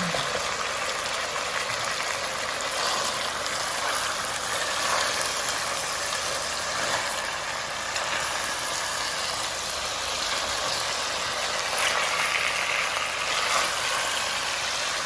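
Chicken pieces in a soy and oyster-sauce marinade sizzling steadily in an enamelled cast-iron pot, stirred now and then with a silicone spatula.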